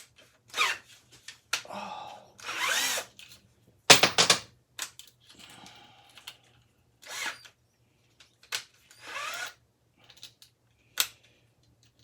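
Power drill run in short bursts, its pitch rising and falling as it spins up and down, between sharp clicks and knocks of metal fan parts.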